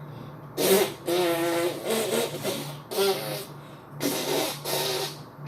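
A person's voice making drawn-out, wordless vocal sounds in several bursts, over a faint steady low hum.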